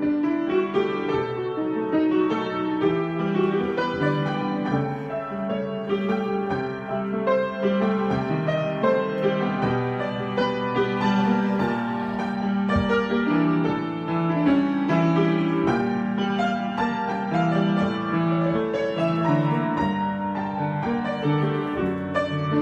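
Solo piano improvisation: flowing chords and melody lines played continuously, with notes overlapping and ringing into each other.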